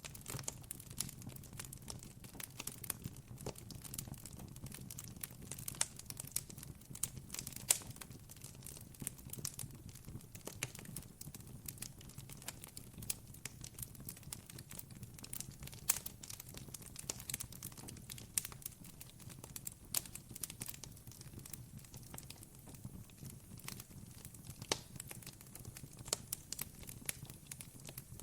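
Wood campfire crackling, with frequent irregular pops and snaps over a low, steady rumble.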